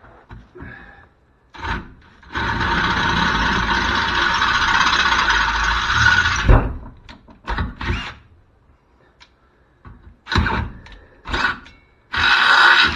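Power drill boring into a steel cross member: one steady run of about four seconds ending in a sharp knock, then several short bursts, the last near the end.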